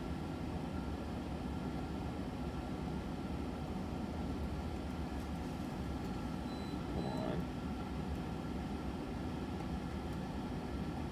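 Steady low hum and hiss of background noise, with one brief faint higher sound about seven seconds in.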